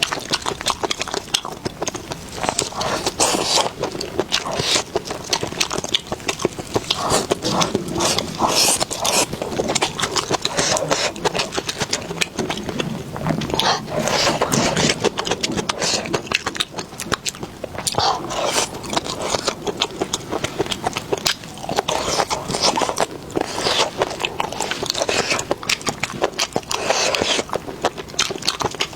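Close-miked chewing and biting: a continuous run of wet mouth clicks and crackles as food is eaten.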